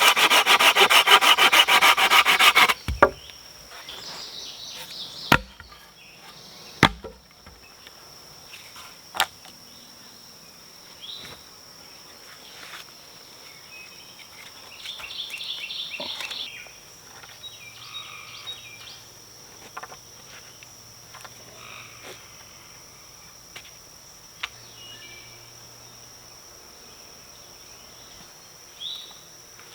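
Hand saw cutting through a wooden pole with quick, even strokes that stop about three seconds in. A few sharp wooden knocks follow, and a second short burst of sawing comes in the middle. A steady high insect buzz runs underneath.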